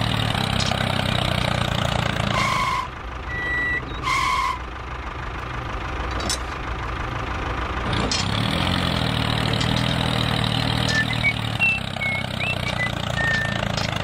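Tractor engine running with a steady low note, stopping about three seconds in, with two short beeps about a second and a half apart; the engine runs again from about eight and a half seconds in.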